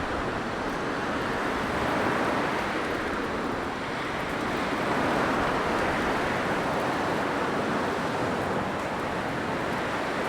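Blizzard wind blowing in a steady, dense rush that swells and eases gently every few seconds.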